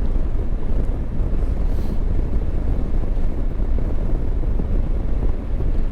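Wind rushing over a helmet microphone, with the low rumble of a Honda Africa Twin Adventure Sports motorcycle riding underneath.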